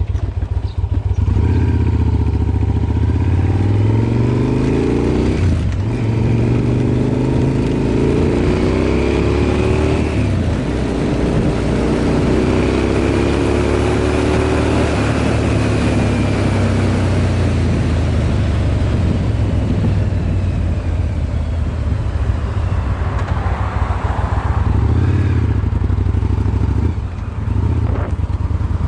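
Yamaha BT1100 Bulldog's air-cooled V-twin running through LeoVince SBK silencers. Its engine speed climbs steadily three times in the first half, with short drops between the climbs, then settles into steadier running.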